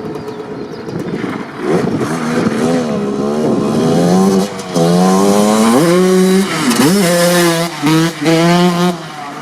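Suzuki RM125 single-cylinder two-stroke dirt bike engine on its stock exhaust pipe. It runs roughly for a couple of seconds, then is revved repeatedly, its pitch climbing and falling several times, with short drops in the revs near the middle and again near the end.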